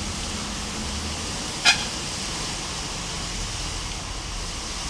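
Steady rush of floodwater running down a street, with one short car-horn toot about a second and a half in.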